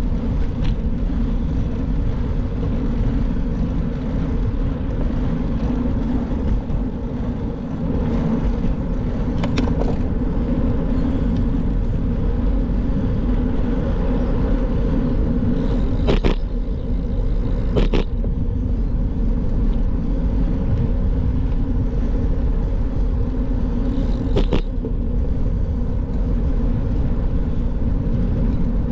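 Steady rumble of a bike on the move, with a few short, sharp clicks or knocks scattered through it.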